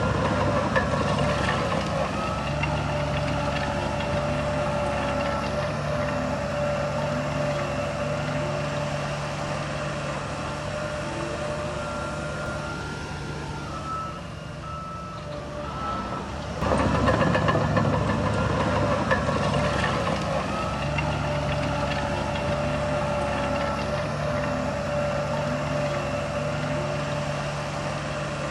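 Heavy diesel earthmoving machinery running steadily. Partway through the engine noise drops and a reversing alarm beeps several times, then the full machine noise comes back suddenly.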